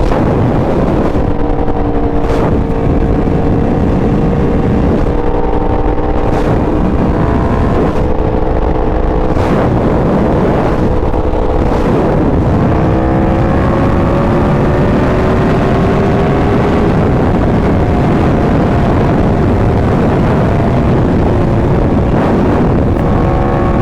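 Sportbike engine running steadily under way, with wind noise; its pitch dips about twelve seconds in, then climbs slowly.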